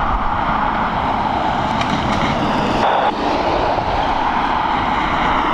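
Jet airliner engines running loud, a steady rushing roar with deep rumble.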